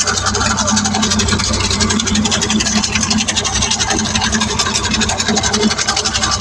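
Tractor engine running steadily at a fast, even beat.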